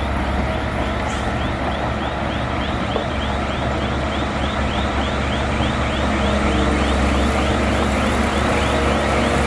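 Bulldozer's diesel engine running steadily, with a regular repeating clink about three times a second over it, growing louder about six seconds in.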